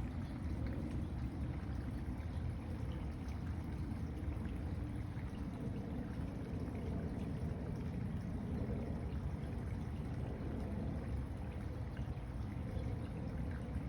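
Steady, even rushing noise, heaviest in the deep range, with no distinct events.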